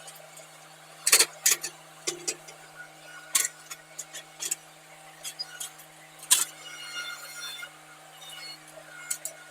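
Chunks of broken concrete and gravel clinking and knocking against the steel of a homemade tractor-mounted gravel separator: a dozen or so sharp, irregular knocks, loudest about a second in and again past six seconds, over the tractor's steady low engine hum.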